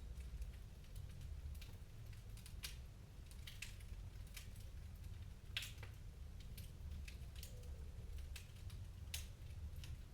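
Wood fire crackling in a fireplace: irregular sharp pops and snaps, one louder snap about halfway through, over a low steady rumble.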